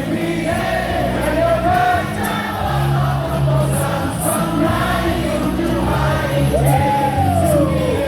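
Baseball stadium crowd singing a cheer song in unison along with music over the public-address speakers.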